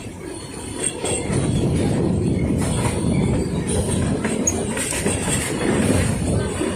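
Puffing Billy narrow-gauge train running along the track: a steady rumble of wheels and carriages, with a faint high wheel squeal, growing a little louder after the first second.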